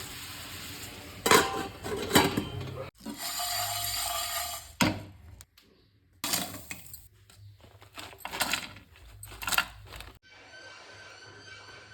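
Metal cooking utensils knocking and clinking against pots and pans in a series of separate knocks, with a steady hiss between about three and five seconds in.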